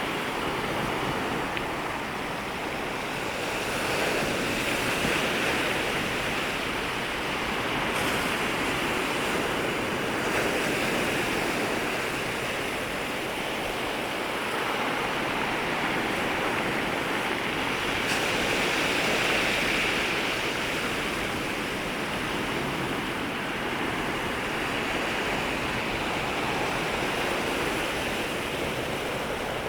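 Sea waves washing in and breaking at the water's edge, a steady surf noise that swells and ebbs every few seconds.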